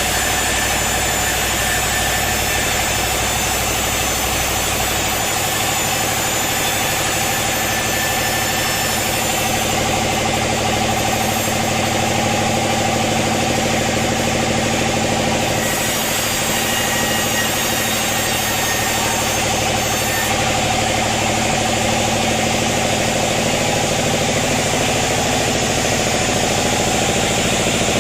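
Sawmill machinery running steadily: a loud, constant engine-like drone with several steady tones and a hiss of noise, never pausing.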